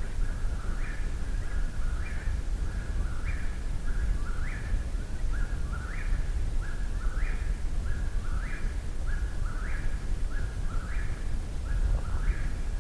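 Eastern whip-poor-will singing its 'whip-poor-will' phrase over and over, about one phrase every second and a quarter, each ending on a rising note, over a steady low rumble.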